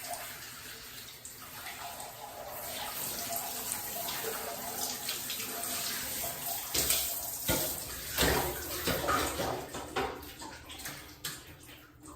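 Running water from the tap splashing during a cat's bath, louder from about seven to ten seconds in, then dying away near the end.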